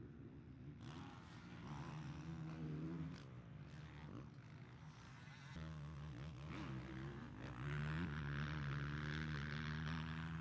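Motocross bike engines revving on the track, the pitch rising and falling as the riders work the throttle and change gear. The sound is loudest over the last couple of seconds.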